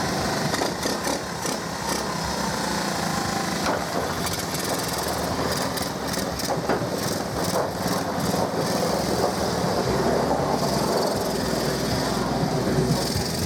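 Honda ATC125M three-wheeler's small single-cylinder four-stroke engine running steadily, on a carburettor that still needs adjusting and won't take full throttle.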